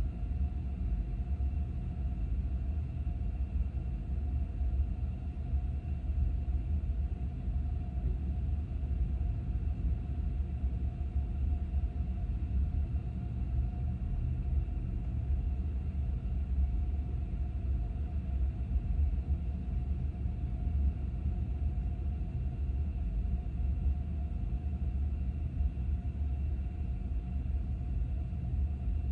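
Steady low road and engine rumble inside a moving car's cabin, with a faint constant hum above it.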